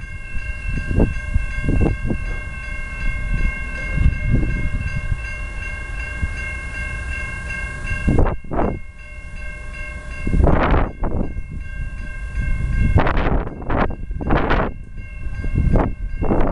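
Union Pacific locomotive air horn blowing a long held chord of several tones for about eight seconds, then more long blasts with short breaks, over the low rumble of the passing train and gusts of rushing noise.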